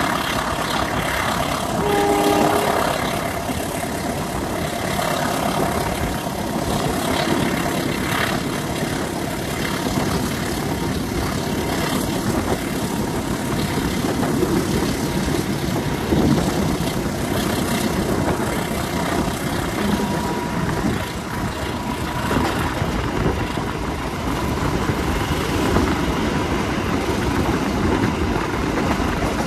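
Passenger train under way: steady rumble of the CC203 diesel-electric locomotive working, with wheel and rail noise, and a brief tone about two seconds in.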